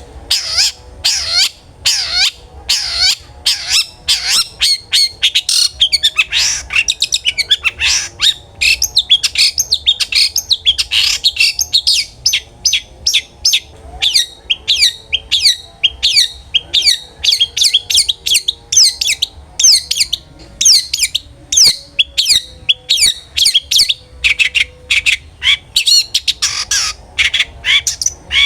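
Long-tailed shrike (cendet) singing loudly and without pause: a fast run of sharp chirps and harsh squawking notes, several a second, starting abruptly.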